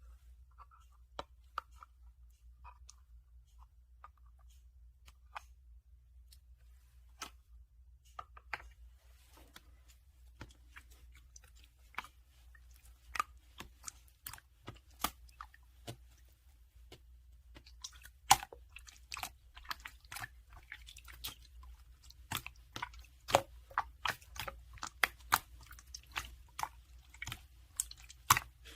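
Close crisp clicks and crunches, scattered at first and coming thick and fast from about ten seconds in.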